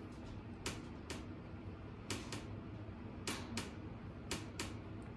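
Whirlpool oven's side panels ticking: sharp ticks in pairs, about one pair a second. The ticking is the cheaply made side paneling flexing with movement, which the repairman blames on poor panel material.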